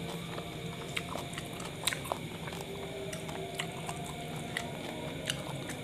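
A person chewing a mouthful of kebab, with wet mouth clicks and smacks scattered irregularly through the chewing. A faint steady hum runs underneath.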